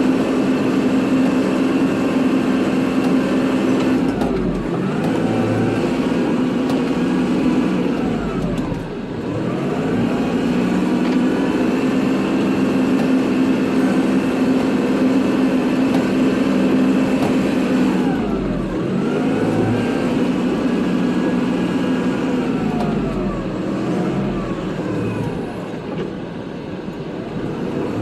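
Kubota tractor's diesel engine running steadily under load while plowing snow. A higher whine over it swoops down and back up in pitch several times as the machine changes speed and direction.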